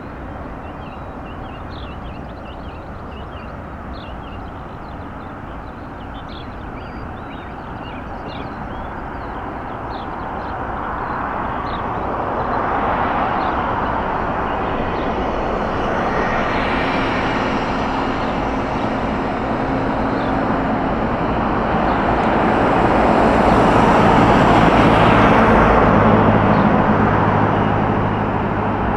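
Boeing 777 jet engines, heard as the airliner comes in to land: the rush builds from about a third of the way in, with a low steady hum joining it, and swells to its loudest near the end before easing slightly.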